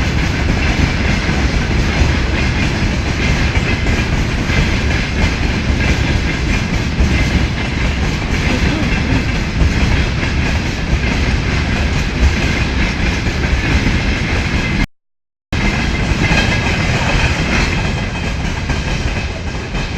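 Tank-car freight train hauled by a 2TE25KM diesel locomotive running steadily over the rails, a continuous loud rumble with wheel clickety-clack. The sound cuts out completely for about half a second roughly 15 seconds in.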